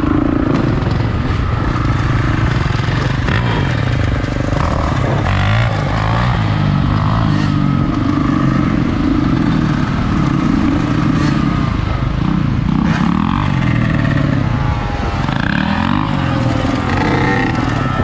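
Dirt bike engine running and being revved up and down, its pitch rising and falling over and over.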